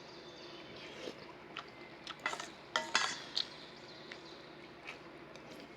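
A spoon clicking and clinking against a dish several times, with chewing of cereal between the clinks.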